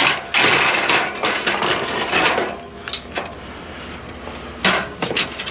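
Aluminum scrap being handled: a long stretch of scraping and rattling metal, then a few sharp knocks near the end.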